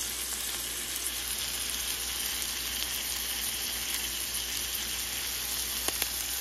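Chicken pieces sizzling steadily in hot oil in a nonstick frying pan, with a couple of light clicks near the end.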